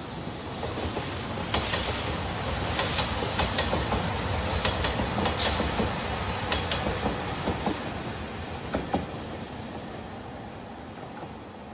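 A JR Shikoku 2700 series diesel express train passing close by. Its rumble swells over the first couple of seconds and fades away from about eight seconds in, with the wheels clicking over rail joints and a thin high squeal that comes and goes.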